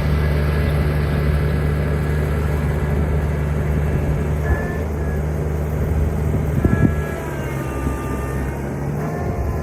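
2010 New Holland T2320 compact tractor's three-cylinder diesel engine running steadily under work, with a higher whine whose pitch slides up and down near the end and a couple of short knocks around the middle.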